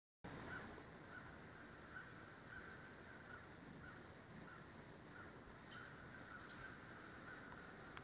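Near silence, with a distant bird faintly repeating short calls about three every two seconds.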